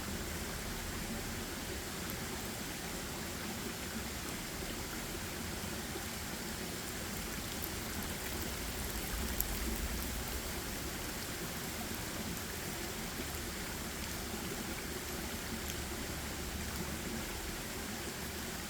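Steady forest ambience: an even rushing noise with a faint low rumble, and a few small ticks about halfway through, one of them sharper than the rest.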